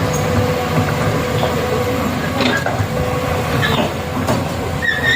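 A heavy vehicle's engine running steadily, with a low rumble and a steady whine, and a few short squeaks and clicks over it.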